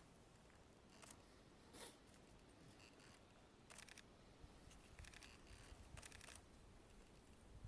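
Faint camera shutter clicks in short quick runs, a few times over a near-silent background.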